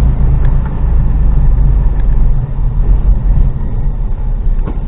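HGV lorry's diesel engine running, heard from inside the cab as a steady low rumble.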